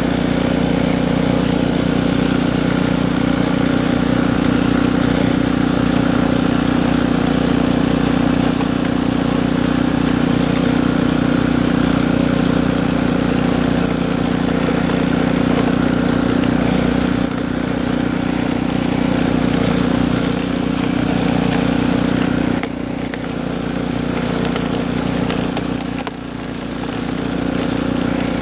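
Snowblower's small gasoline engine running steadily, with two brief dips in level near the end.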